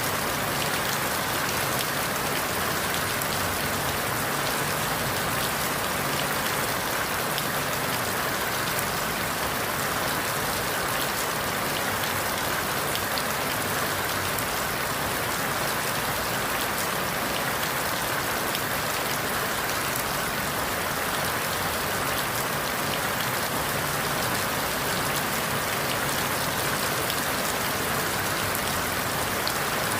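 Steady rain falling through forest leaves, an even hiss with faint scattered drop ticks.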